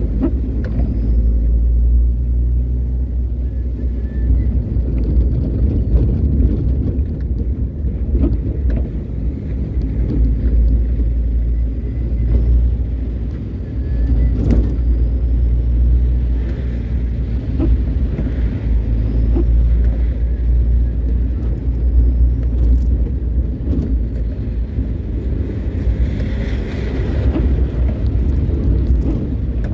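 Steady low rumble of a car driving, with engine and road noise and scattered light clicks.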